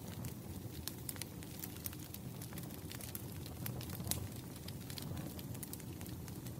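Campfire burning: a steady low rumble of flames with irregular sharp crackles and pops of burning wood, one louder pop about four seconds in.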